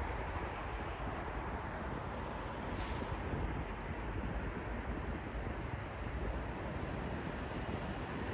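Steady city traffic noise, a continuous low rumble and wash of passing vehicles, with a short hiss about three seconds in.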